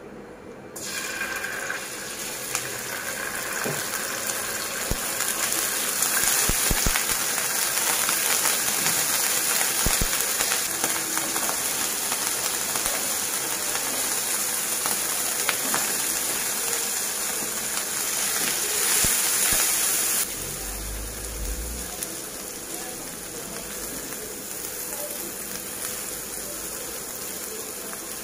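Hot oil sizzling in a non-stick frying pan as diced vegetables are added and stirred with a silicone spatula, with a few light knocks. The sizzle starts about a second in and drops abruptly to a quieter level about two-thirds of the way through.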